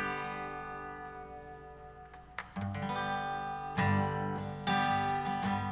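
Acoustic guitar strummed: a chord rings out and fades, then fresh chords are strummed from about two and a half seconds in.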